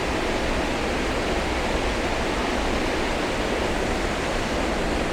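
Steady rushing of a waterfall, a dense even roar of falling water with no breaks.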